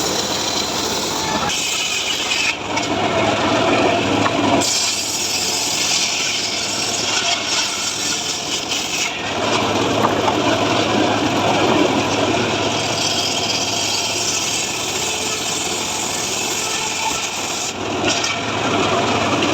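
Homemade power saw rig (gergaji srekel) running and cutting through mahogany wood. The sawing is continuous, and its tone shifts a few times as the cut goes on.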